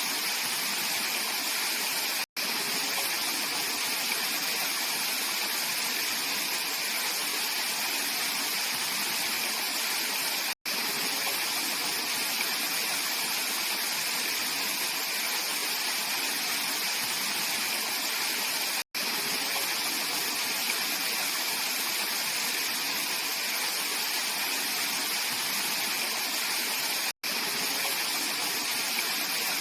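Mountain valley stream rushing over rocks in a steady, even rush. The sound cuts out for an instant about every eight seconds.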